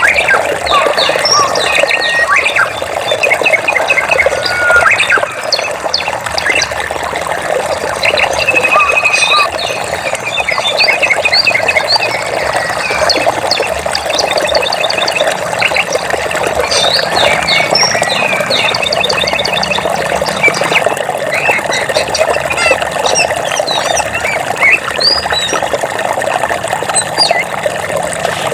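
Many birds chirping, trilling and calling over the steady rush of flowing water.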